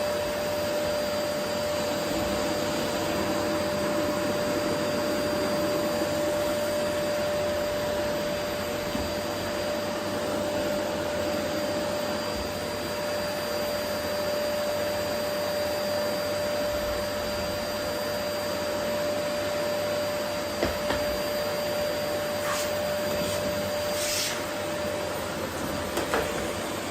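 Vacuum cleaner running steadily: a constant rushing roar of airflow with a steady motor whine. A few light clicks and knocks come near the end.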